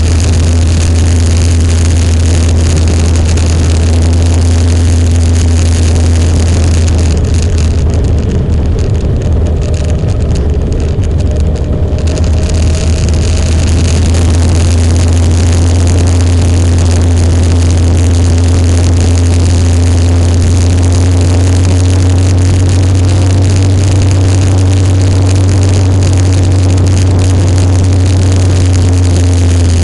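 Motorcycle engine running steadily while riding, with a strong low rumble. Its pitch creeps slowly upward in the second half.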